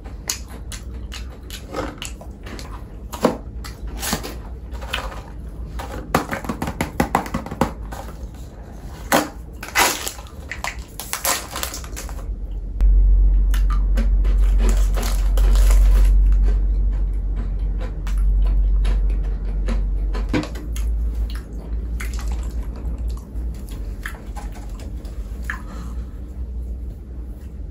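Close-up eating sounds: someone crunching and chewing snack food, with a quick run of sharp crackles in the first half. A loud low rumble comes in about halfway through and lasts several seconds.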